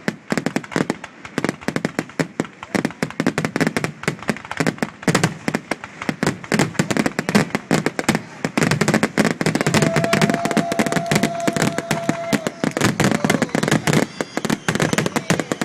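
Fireworks display finale: aerial shells bursting in rapid, continuous succession, a dense barrage of bangs and crackles that thickens in the second half. A short steady whistle sounds over it about ten seconds in.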